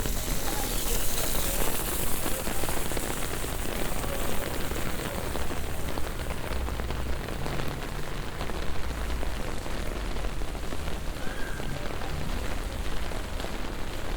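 Heavy rain pouring and pattering on hard street surfaces, a steady dense hiss with fine crackling drops throughout.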